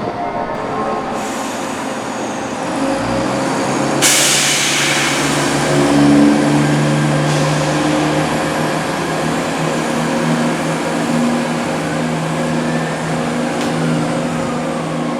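Diesel multiple unit's engines running steadily, with a sudden hiss of released air about four seconds in.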